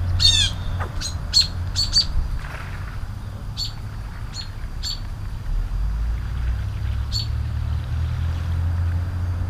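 Bird chirping: short, sharp high calls repeated, several in quick succession near the start and then every second or two, over a steady low rumble.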